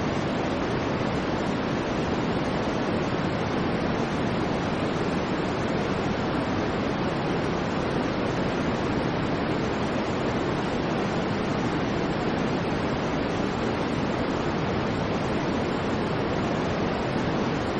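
Steady generated white noise: an even, unchanging hiss weighted toward the low and middle range, with no other sounds.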